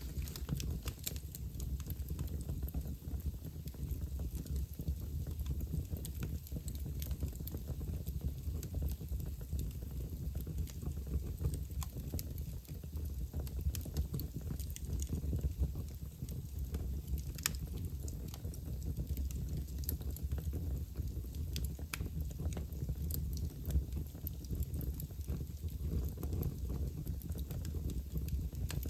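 Wood fire burning in a fireplace, crackling with irregular sharp pops and snaps over a low steady rumble. One snap about 17 seconds in is louder than the rest.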